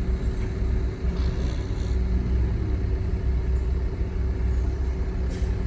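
Diesel engine of heavy earthmoving machinery running steadily with a low drone. A brief hiss comes about a second in.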